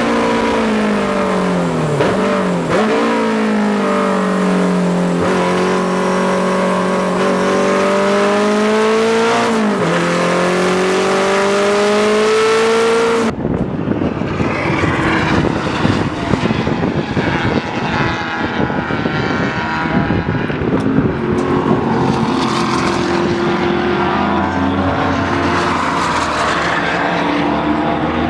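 Race car engine running hard on track at high revs, its pitch falling and rising again and again through braking, corners and gear changes. About 13 seconds in the sound cuts abruptly to a rougher, duller engine and road noise.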